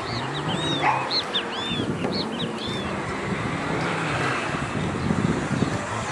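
Birds chirping with short arching calls, repeated several times in the first couple of seconds, over a steady rushing rumble.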